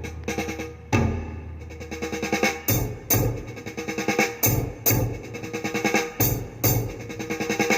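Drum-heavy music played back through a Bewith audio speaker system with an added tweeter. A softer passage gives way about three seconds in to a steady, heavy kick-and-snare beat.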